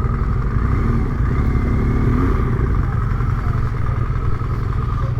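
Adventure motorcycle's parallel-twin engine running while riding a rough dirt trail, the revs rising and falling a couple of times.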